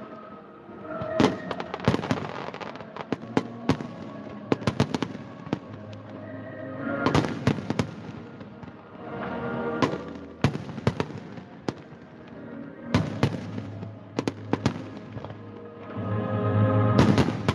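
Fireworks display: clusters of sharp bangs and crackles every few seconds, with music playing throughout.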